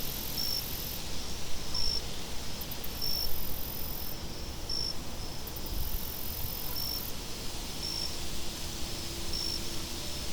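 Layered outdoor night ambience: steady wind noise with a cricket chirping in short, high, evenly spaced pips about every second and a half.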